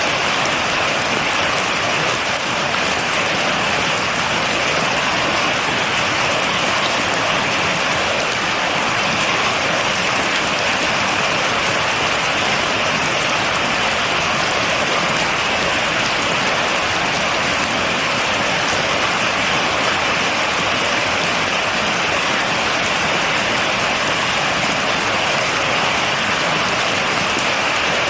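Steady rain falling without pause, an even hiss with the patter of drops on a surface and no thunder.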